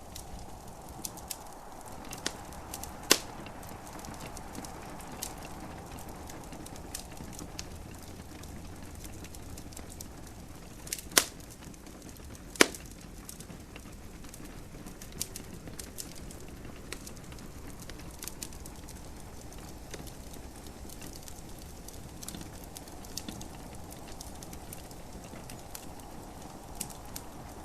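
Wood fire crackling in a fireplace: scattered sharp pops and snaps, three louder ones about 3, 11 and 12½ seconds in, over a steady soft hiss.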